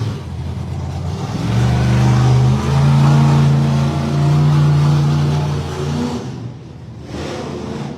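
Monster truck engine revving hard under throttle. It climbs in pitch about a second and a half in, holds high and loud for several seconds, then drops off about six seconds in, with one more short burst of throttle near the end.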